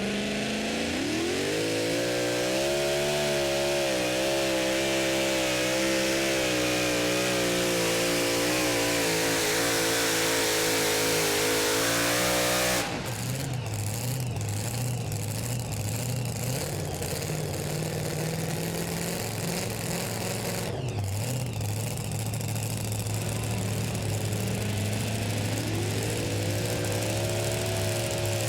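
Super modified two-wheel-drive pulling truck's engine climbing to full revs at the launch and held at high, steady revs for about twelve seconds while pulling the sled. It drops off suddenly as the pull ends, runs at lower revs, and climbs again near the end.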